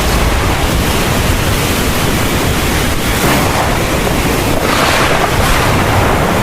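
Heavy thunderstorm rain pouring steadily, a dense hiss with a deep rumble underneath, swelling slightly about three and five seconds in.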